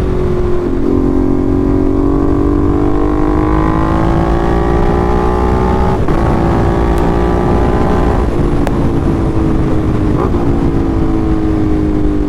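Ducati Monster 1200's V-twin through an SC Project exhaust, accelerating hard: its note climbs for about five seconds, drops sharply at an upshift about six seconds in, then holds and slowly falls as the rider eases off.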